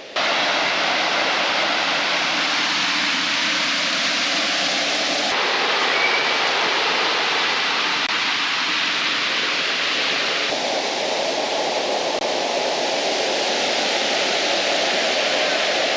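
Waterfall rushing in a steady roar of falling water. Its tone shifts abruptly twice, about five and ten seconds in.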